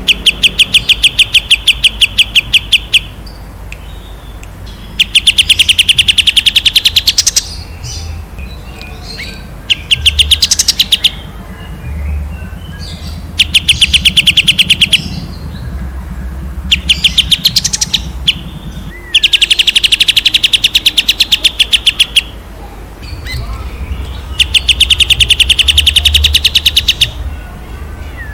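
A songbird singing long, clear rapid-fire bursts of sharp repeated notes, about ten a second, in runs of one to three seconds with short pauses between, about seven bursts in all.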